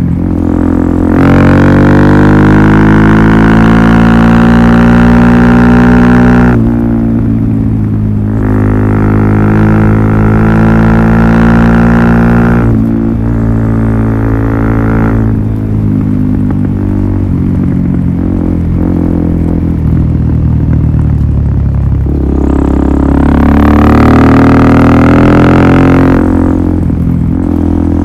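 Suzuki DR-Z400SM's single-cylinder four-stroke engine through a full Yoshimura exhaust system, running loud and rising to higher revs three times, holding each for a few seconds before dropping back.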